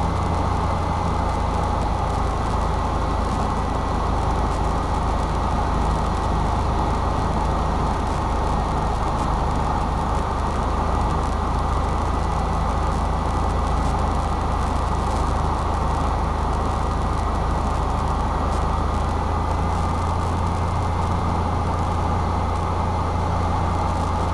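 Cessna 172's piston engine and propeller running steadily in flight, a constant low drone heard inside the cockpit, with a faint steady high whine over it.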